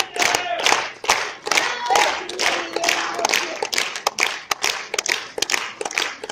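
Audience clapping, dense and continuous, with some voices calling out among the claps.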